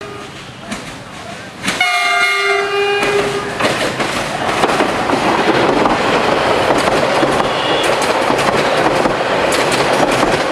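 Bangladesh Railway DEMU (diesel multiple unit) train sounds its horn in one blast of about two seconds, then passes close by: a loud rush of wheel and rail noise with repeated sharp clicks.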